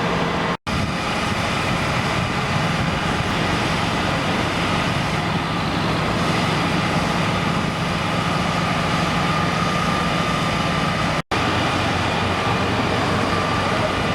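A large engine running steadily, with a low hum, broken by two short dropouts, one about half a second in and one near the end.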